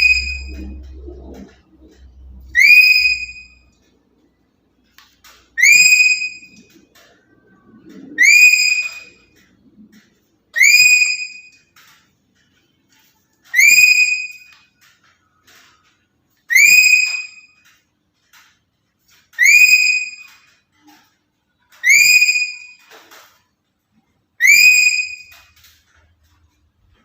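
Black-capped lory calling over and over, about ten calls one every two and a half to three seconds. Each call is a clear whistle-like note that sweeps up sharply, then holds for about a second before fading.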